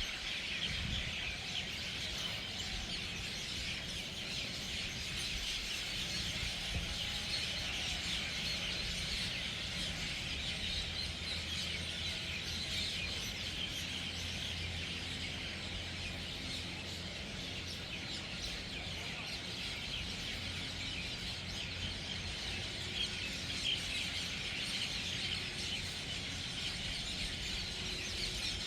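A large flock of birds chattering and calling continuously as they gather to roost for the night, a dense unbroken din of many overlapping calls over a low rumble.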